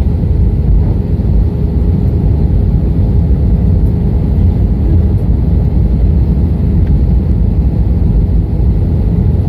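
Steady aircraft noise heard from inside a Citilink airliner: an even, loud low rumble of engines and airflow with a faint steady hum over it.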